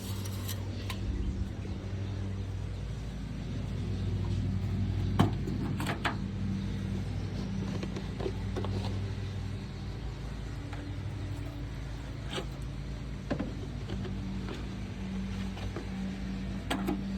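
Steady low machine hum, with a few sharp clicks and knocks scattered through.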